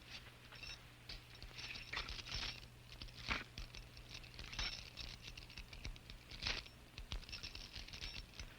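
Steel leg-chain links and handcuffs clinking and rattling irregularly as they are fastened, with a few sharper clanks, the strongest a little past three seconds in and again about six and a half seconds in.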